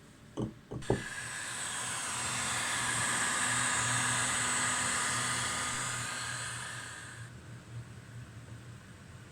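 A few light clicks, then a steady hiss of pressurised gas or spray being released for about six seconds. It swells in the middle and fades before stopping.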